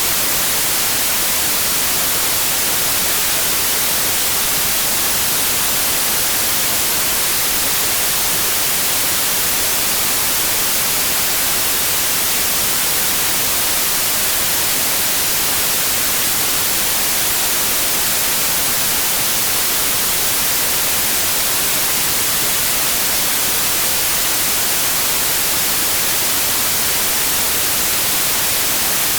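Steady white noise: an even, unbroken hiss at constant loudness, brightest in the treble, with no hum or rhythm in it.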